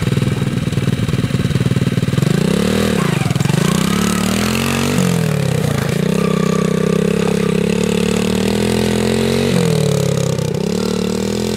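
Small dirt bike engine running, ticking over quickly at first, then revving up about two seconds in; the engine speed dips and climbs again a few times before holding steady near the end.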